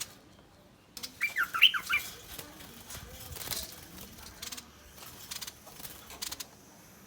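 Bulbul giving harsh threat calls: scattered rasping scolds, with a quick run of short wavering whistled notes about a second in.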